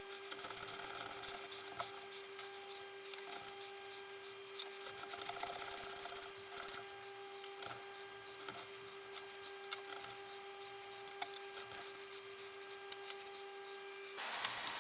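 Hand tools clicking and tapping on metal engine parts, several sharp ticks scattered throughout, over a steady high hum that stops near the end and gives way to a louder hiss.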